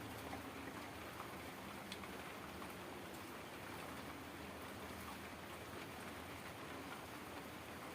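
Heavy rain falling steadily: an even hiss with scattered sharper ticks of individual drops.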